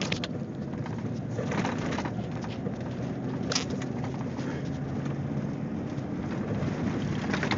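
Four-wheel-drive vehicle's engine running steadily under load at speed on packed snow, heard from inside the cab, with tyre and road noise and a couple of sharp knocks.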